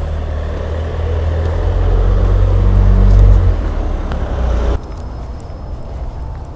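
A motor vehicle's engine running close by, its low hum and rumble growing louder to a peak about three seconds in, then cutting off abruptly about a second and a half later.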